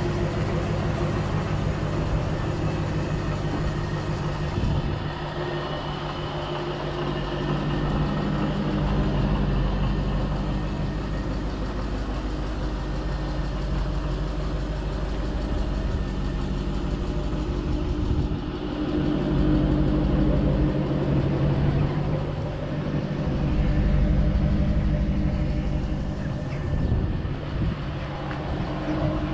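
Supercharged 4.6-litre V8 of a 2006 Ford Mustang GT running under way on a drive. The engine note drops about five seconds in and climbs again later with throttle and road speed.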